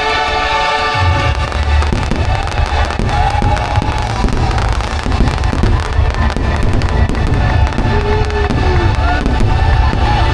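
Fireworks going off in rapid, dense bangs and crackles over loud show music, starting about a second in.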